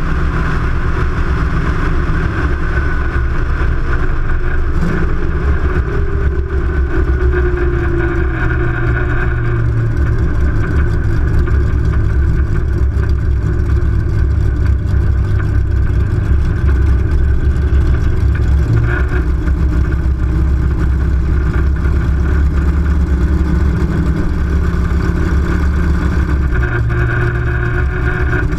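Chevrolet Nova's engine running steadily at low speed, a loud continuous rumble with no hard revving, picked up close by a camera mounted on the outside of the car's body.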